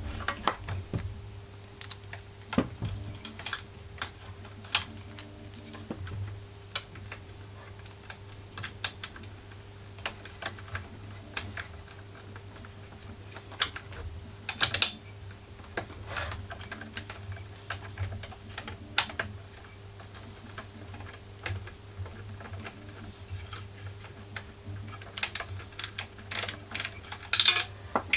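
Scattered metallic clicks and taps of a ratchet wrench and screws being worked as a small generator's exhaust muffler is bolted back on. Quick runs of clicks come about halfway through and again near the end, over a faint steady hum.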